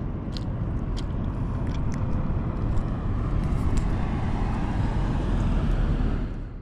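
Steady road-vehicle rumble with heavy low wind noise on the microphone, with a few faint clicks.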